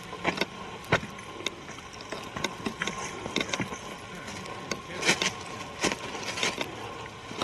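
Footsteps on a woodland trail: irregular crunches and clicks of boots on the ground, with louder, longer crunches about five and six and a half seconds in.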